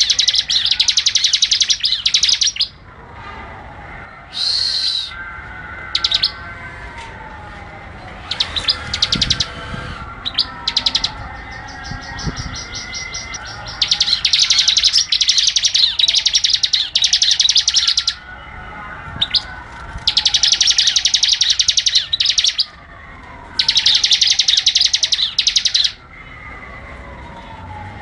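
Bar-winged prinia (ciblek) singing in long, loud bursts of very rapid, high, repeated chipping notes, each burst lasting a few seconds, with shorter calls between the bursts. Fainter, lower whistles fall in pitch every few seconds behind the song.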